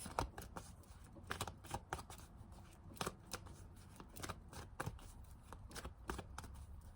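Tarot cards being shuffled and handled by hand: a faint run of quick, irregular card flicks and taps.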